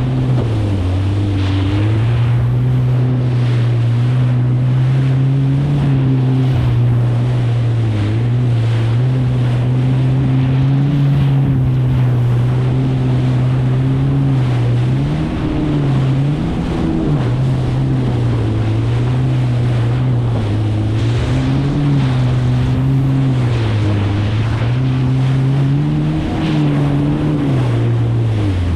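Kawasaki STX 160X jet ski's four-cylinder four-stroke engine running at speed. Its pitch dips and climbs back several times as it rides through chop. Water rush and wind noise on the microphone run under it.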